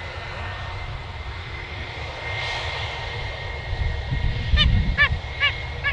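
Jet airliner engines running with a steady whine over a low rumble. Near the end, a goose honks four times in quick succession.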